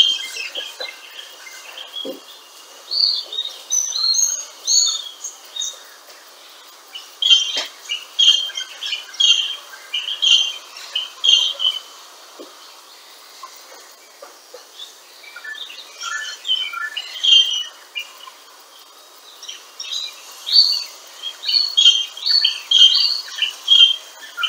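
Small birds chirping in quick clusters of short, high notes, in bursts with brief pauses between them, and a few faint knocks.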